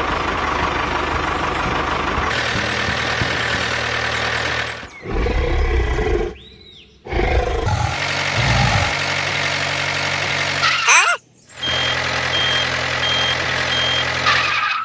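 Vehicle engine sound effects running steadily, broken by several abrupt cuts and low rumbling bursts midway, with a row of short high beeps like a reversing alarm near the end.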